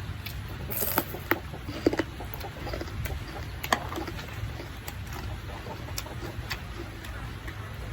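Eating noodles from a bowl: a few sharp clicks and light ticks of utensils against the bowl, over a steady low rumble of background rain.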